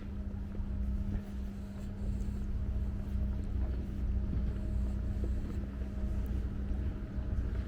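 An engine idling steadily: a low, even hum with a constant pitch and a pulsing rumble beneath it.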